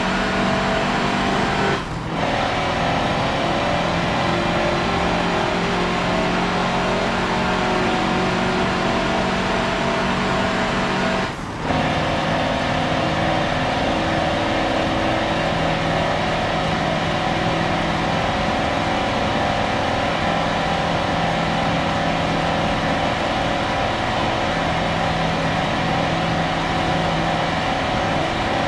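Mercedes-Benz racing truck engine running hard under load, its note steady apart from two brief dips, about two seconds in and about eleven and a half seconds in, where it changes gear.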